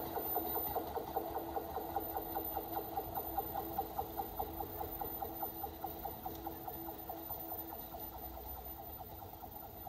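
E353 series electric express train running away down the line: a rapid, regular clatter of its wheels on the rails over a steady hum, fading steadily as it recedes.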